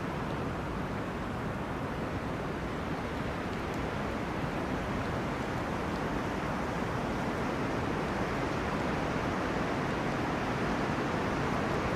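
Wind rushing steadily through forest trees, an even, unbroken rush that grows slightly louder towards the end.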